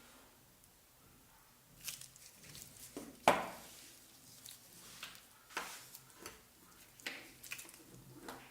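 A series of light knocks, clicks and scrapes from blender parts being handled, about ten in all and irregularly spaced, the loudest a sharper knock about three seconds in.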